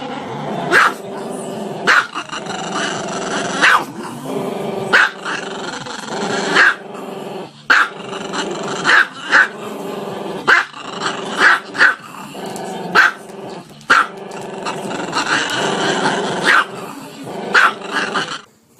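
Small black-and-tan dog growling continuously, broken by sharp barks about once a second.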